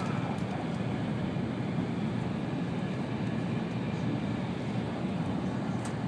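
Steady rumble and rushing of an N700-series Shinkansen heard from inside the passenger cabin while the train runs at speed.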